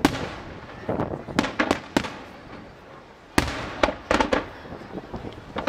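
Firework display: aerial shells bursting with sharp bangs and cracks. A quick run of bangs comes about a second and a half in, and a loud bang about three and a half seconds in is followed by a cluster of cracks.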